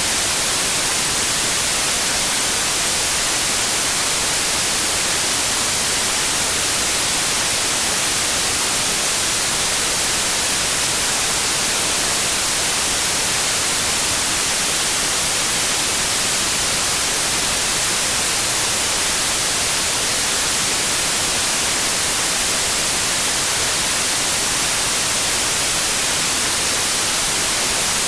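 Steady electronic white noise: an even, unchanging hiss, brightest in the high frequencies.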